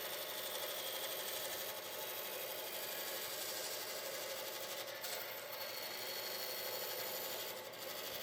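A power tool running steadily on wood, with a brief dip in level near the end.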